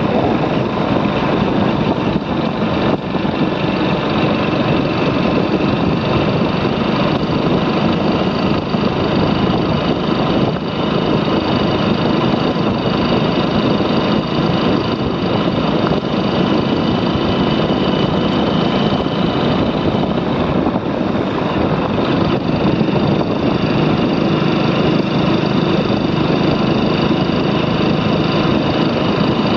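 Motorcycle riding along at a steady pace, its engine running with a loud, even rush of road and air noise.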